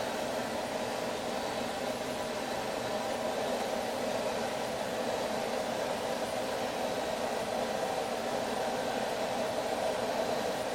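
Two-burner gas forge running, a steady, even rush of burner noise that does not change.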